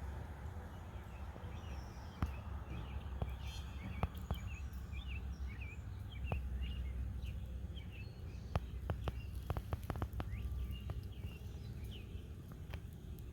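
Small birds chirping in many quick, short notes, over a steady low rumble, with a run of sharp clicks about two-thirds of the way through.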